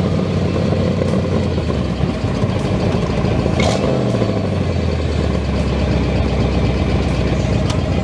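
A car engine idling steadily. Its pitch drops a little about halfway through as it settles to a lower idle, and there is a single sharp click just before.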